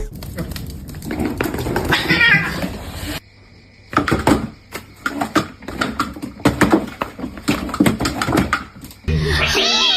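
A cat meowing about two seconds in. Later comes a run of sharp knocks and clattering.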